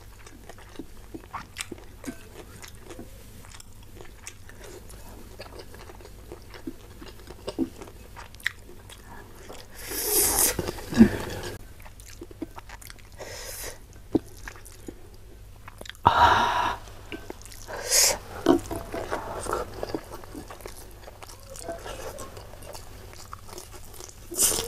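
Close-miked chewing of rice and spicy salted fish, with a steady patter of small wet mouth clicks and a few louder bursts about ten, sixteen and eighteen seconds in. Near the end comes a crisp bite into a cucumber slice.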